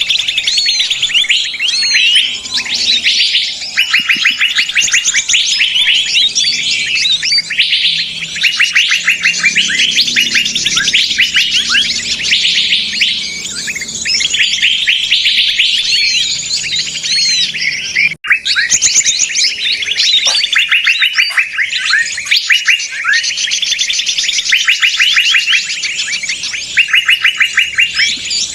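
A dense chorus of many small songbirds chattering and trilling rapidly and noisily, a 'ribut' lure call of agitated birds played to draw in wild birds. The sound drops out suddenly for a split second about two-thirds of the way through.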